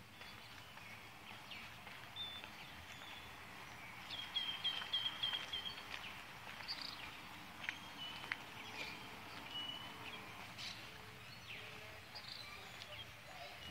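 Several birds chirping and whistling over a steady outdoor background hiss, with a quick run of about seven short chirps about four seconds in.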